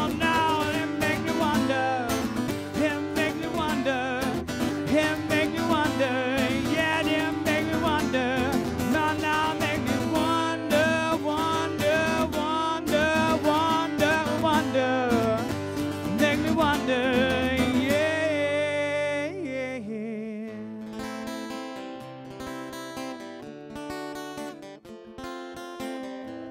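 Live band music with guitars: a wavering melody line with vibrato over full accompaniment. About 18 seconds in it drops to quieter acoustic guitar strumming.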